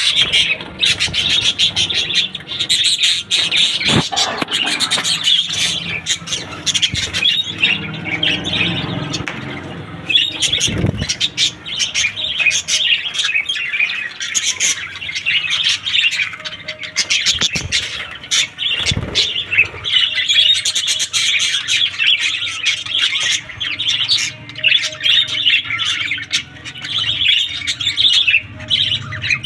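A group of pet birds chirping and squawking without pause, many calls overlapping into a dense, high chatter.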